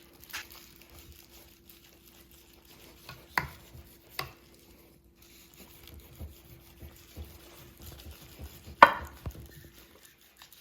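Carving knife cutting through the skin and fat of a cured Serrano ham: soft slicing and scraping with a few sharp knocks, the loudest near the end.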